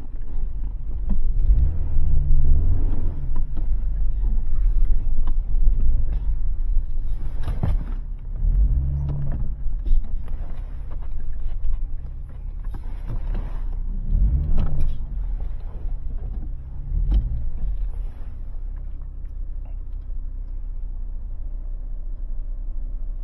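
A vehicle engine running at low speed under a steady low rumble, its pitch swelling up and back down in a few short revs before it settles near the end.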